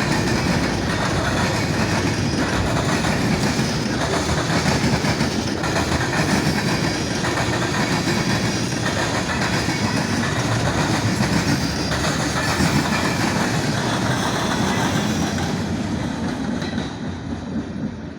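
Freight cars of a Norfolk Southern mixed freight train rolling past, wheels clacking over the rail joints with a steady rumble. The sound dies down near the end as the train draws away.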